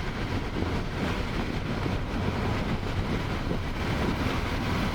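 Steady road and engine rumble inside a moving car's cabin, with some wind noise.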